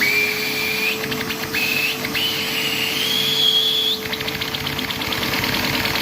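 Vacuum cleaner running steadily and driving a Lego vacuum engine, with a high whistle of sucked air that steps up in pitch. About four seconds in the whistle stops and the engine's fast, even clicking takes over.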